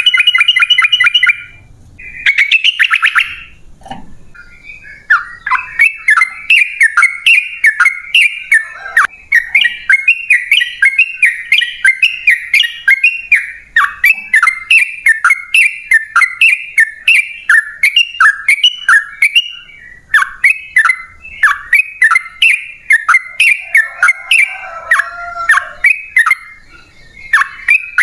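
Yellow-vented bulbul (trucukan) singing. Two short rapid trills come near the start, then from about five seconds a long unbroken run of quick, repeated chattering notes.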